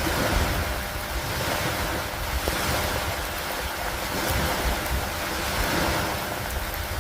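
Steady rain falling in an even hiss, with a gusty low rumble of wind underneath and a few faint drop ticks.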